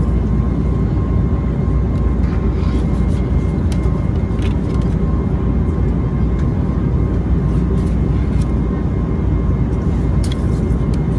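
Steady cabin noise inside an Airbus A321neo airliner: an even rumble with a thin, steady high tone running through it, and a few faint ticks.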